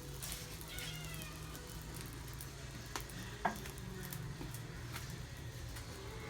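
A short animal cry falling in pitch, about a second in, then two sharp clinks around the middle, over faint steady background music.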